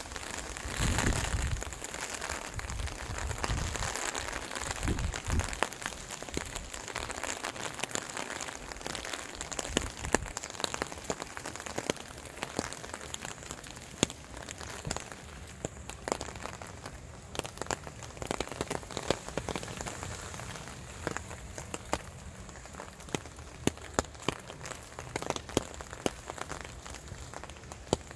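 Rain falling, with many scattered sharp drops and drips. A low rumble in the first few seconds.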